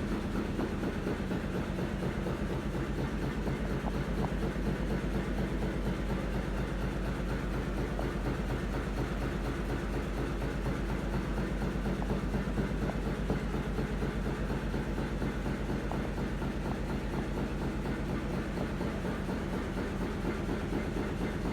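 Petter Atomic stationary engine running steadily at a constant speed, its firing strokes coming in a fast, even beat.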